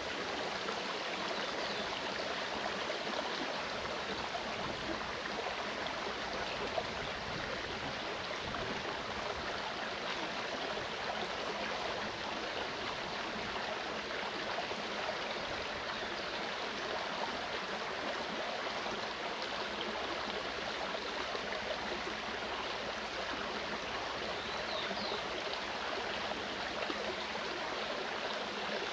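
Mountain stream running steadily, a continuous rush and gurgle of flowing water.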